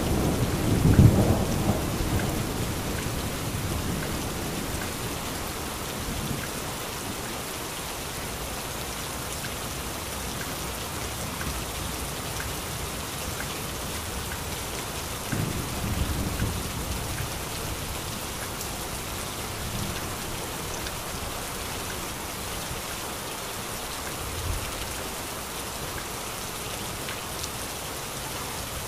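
Heavy rain falling steadily, with distant thunder: a low rumble dying away over the first couple of seconds, another roll about halfway through, and a short low thud near the end.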